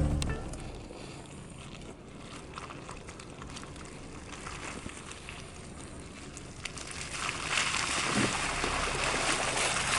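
SUV driving slowly over an off-road trail, a low steady rumble and tyre noise. From about seven and a half seconds in, a louder rushing hiss builds up.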